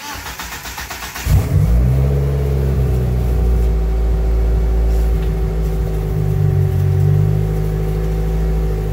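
A car's starter cranks the engine rapidly for about a second, then the engine catches with a jump in level and settles into steady running. The car is a first-generation DSM Eagle Talon with a Mitsubishi 4G63 four-cylinder.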